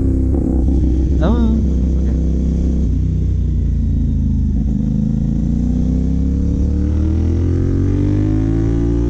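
CFMOTO 450 parallel-twin motorcycle engine running through a Yoshimura AT2 replica slip-on exhaust, revs holding and dipping slightly, then rising steadily through the second half as the bike accelerates in gear, over steady low wind rumble.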